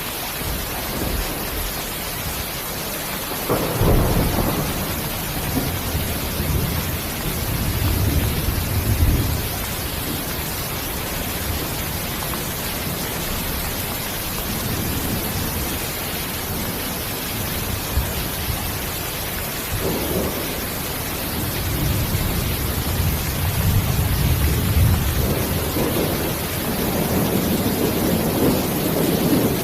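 Steady heavy rain hissing, with two long, low rolls of thunder: one beginning a few seconds in and another building through the second half.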